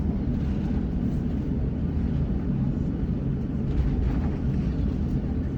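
Steady low rumble heard inside the cabin of a Japan Airlines Airbus A350 on the ground just after landing at Naha.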